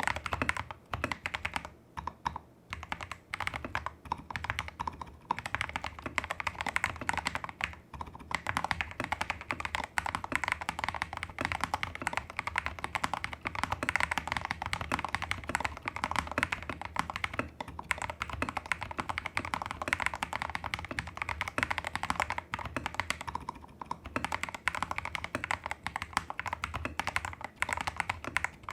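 Rapid continuous typing on a Tester68 custom mechanical keyboard with lubed Holy Panda clone tactile switches, taped PCB, modded stabilizers and XDA-profile keycaps: dense keystroke clacks with a few short pauses in the first seconds and one brief pause about halfway through.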